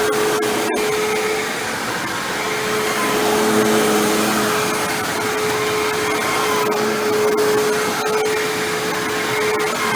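Hoover WindTunnel self-propelled bagless upright vacuum running over carpet: a loud, steady motor rush with a constant hum-like tone, swelling slightly as it is pushed back and forth.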